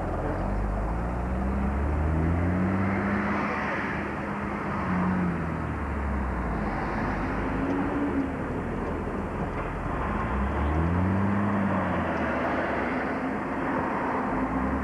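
Car engine and road noise while driving, the engine's pitch rising and falling several times as it speeds up and eases off.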